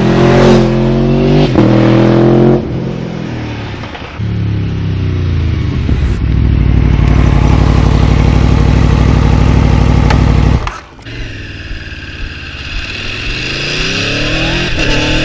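Aprilia Tuono V4 Factory's V4 engine accelerating hard, with its pitch rising and breaking briefly at quick upshifts. It then holds loud and steady, drops off sharply when the throttle is shut about ten seconds in, and rises again near the end.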